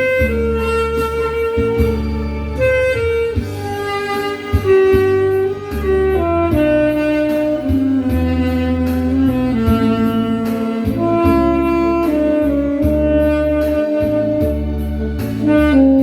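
Tenor saxophone playing a slow melody of long held notes over a backing track with bass and a steady beat.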